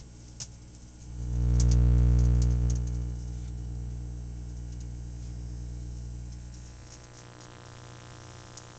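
Microwave oven running with a low electrical hum that swells loud about a second in and eases off after about six seconds, with scattered sharp crackles from a calculator burning inside it.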